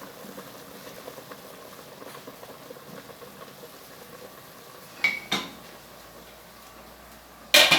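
Metal cookware and utensils clinking: two light clinks about five seconds in, one with a short ring, then a louder clatter near the end, over a low steady kitchen background.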